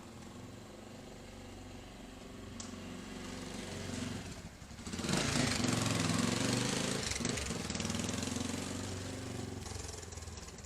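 A vehicle engine runs steadily, then about five seconds in it becomes much louder with a rushing noise over the engine note for several seconds before fading toward the end, like a fast vehicle passing close by.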